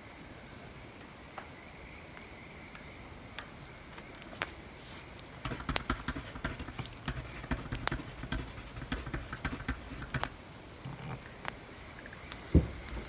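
Wood fire crackling, with scattered sharp pops over a soft hiss. From about five seconds in, writing on paper scratches busily for about five seconds, and a single soft thump comes near the end.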